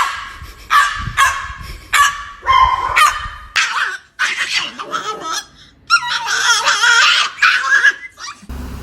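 A dog and a bird squabbling: a string of short, high-pitched animal calls about one every two-thirds of a second, then after a short pause a longer, wavering run of calls.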